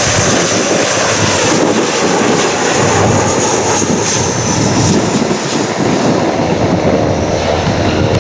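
Jet airliner's engines running loud and steady as it passes, with a high whine that slowly falls in pitch.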